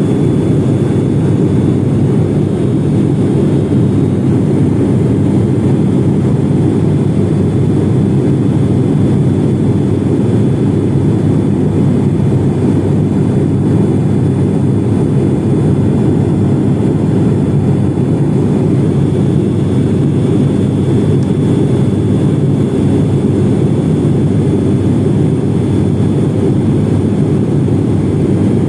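Cabin noise of a turboprop airliner in flight: a steady, loud drone of the engines and propellers, even and unchanging throughout.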